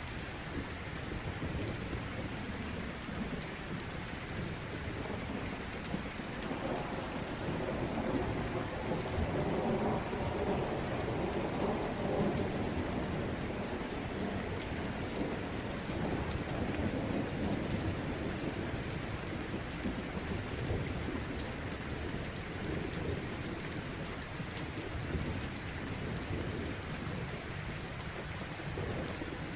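Steady rain with a long rolling rumble of thunder that swells about six seconds in and fades away over the next dozen seconds. Scattered sharp ticks sit on top of the rain.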